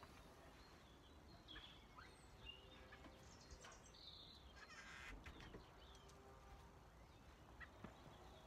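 Near silence: faint outdoor ambience with distant birds calling in short, scattered chirps.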